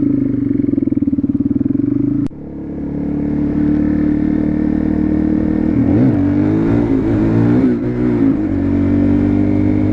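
Suzuki DR-Z400SM supermoto's single-cylinder four-stroke engine running under way. There is a sudden break about two seconds in, after which the engine builds back to a steady cruise, and its pitch rises and falls several times around six to eight seconds in.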